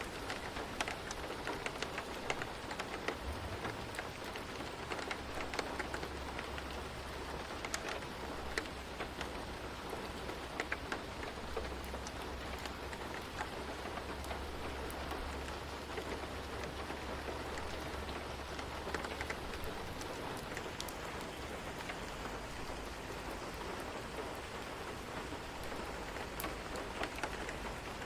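Steady rain: an even hiss with many sharp ticks of single drops, over a low rumble that runs for most of the time.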